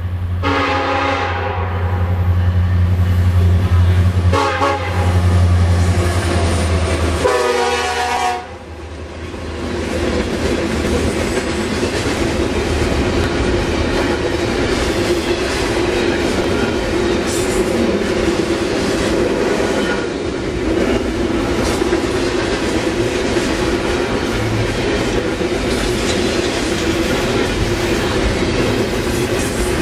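A freight train's diesel locomotives approach and pass with a heavy engine drone and three horn blasts in the first nine seconds: long, short, long. Then double-stack container cars roll past in a steady rumble, with wheels clacking over the rail joints.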